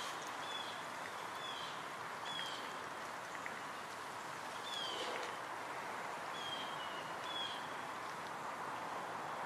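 Ambient nature soundscape: a bird repeating a short, high, falling note every second or so over a steady rushing background.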